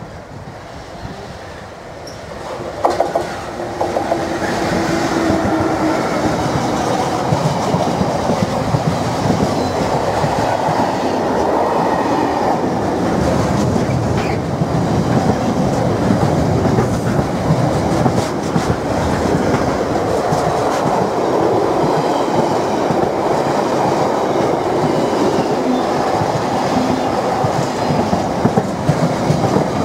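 A Freightliner Class 66 diesel locomotive hauling a container freight train passes close by: the engine grows loud about three seconds in, then a long steady rumble of the container wagons rolling past, their wheels clattering over the track.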